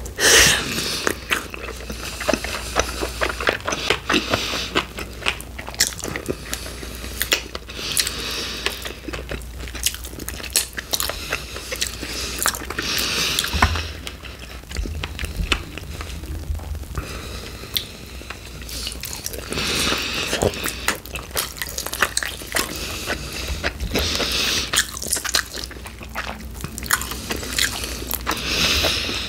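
Close-miked eating of chicken wings: biting and chewing, with many sharp mouth clicks and a louder burst of chewing noise every four to five seconds.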